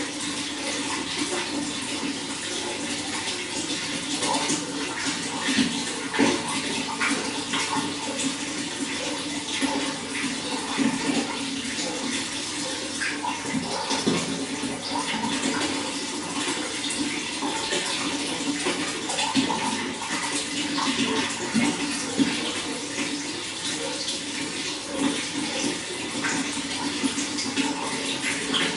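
Running water flowing and splashing steadily, a continuous rush with small irregular splashes.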